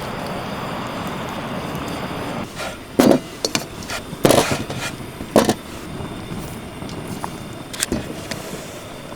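Steady sizzling of a thick steak cooking over a wood fire. From about three seconds in it is broken by several sharp knocks and clatters, the loudest near the middle.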